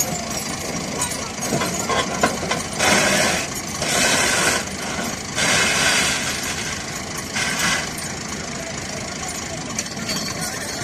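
Massey Ferguson 240 tractor diesel engines running, with four loud bursts of noise over them between about three and eight seconds in.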